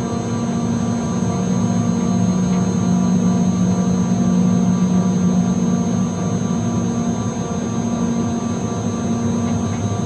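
York chiller's condenser fans running: a loud, steady drone with a strong hum.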